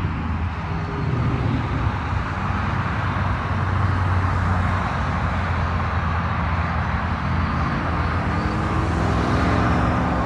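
Steady road traffic noise from vehicles on a highway, with a low engine hum and gentle swells as vehicles pass.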